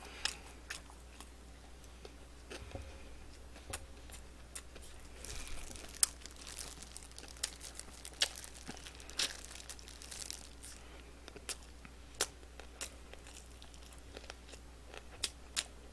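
Close-miked chewing of crispy dakgangjeong fried chicken on the bone, an irregular run of small crunches, clicks and tearing as the meat is bitten and pulled from the bone.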